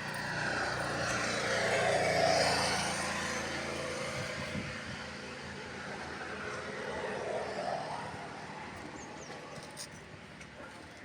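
A motor vehicle passing, its sound swelling to a peak about two seconds in and fading away, then a second, weaker swell a few seconds later.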